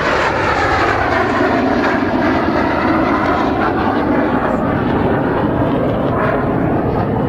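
Steady, loud jet roar of BAE Systems Hawk T1 jets with Rolls-Royce Adour turbofan engines passing overhead in a display.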